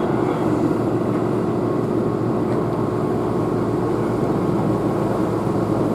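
Keihan electric train running steadily, heard inside the passenger car: an even rumble of wheels on rails with a faint steady hum.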